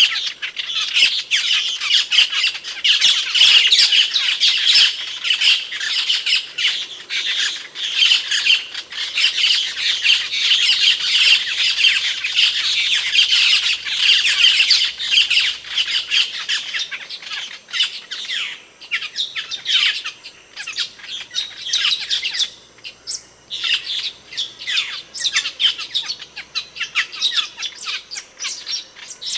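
Asian glossy starling (cucak keling) calling: a dense run of short, sharp squawks and chirps that thins out into sparser calls with brief gaps from about halfway through.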